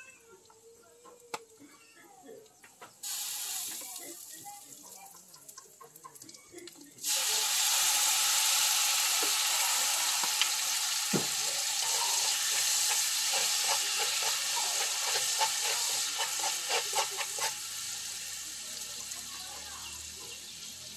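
Ingredients hitting hot oil in a wok: a softer sizzle starts about three seconds in, then a much louder sizzle about four seconds later, with a spatula scraping and stirring through it, and the sizzle dies down near the end.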